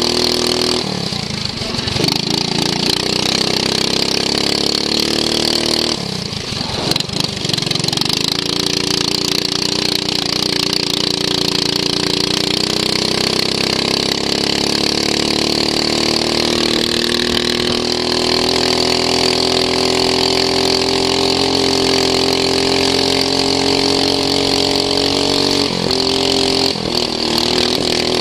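Racing lawn mower's small engine running hard, heard onboard, its pitch dropping twice when it is eased off early on, then climbing slowly and holding high, with a brief dip near the end.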